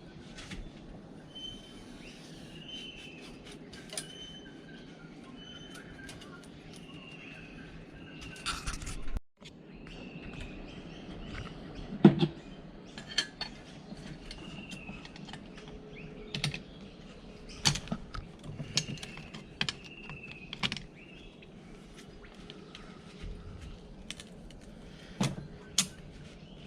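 A bird repeating a short falling call every second or two, with scattered clicks and knocks from handling the wooden hive boxes; a sharp knock about twelve seconds in is the loudest.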